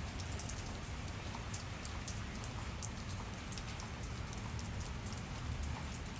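Steady rain falling, with many separate drops ticking sharply against a surface.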